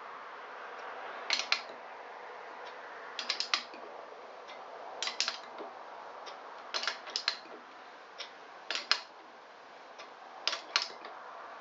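Short clusters of sharp metal clicks every second or two from a tool being worked to push the gudgeon pin out of a Honda SL125 piston. The pin is tight in its bore and moves only slowly.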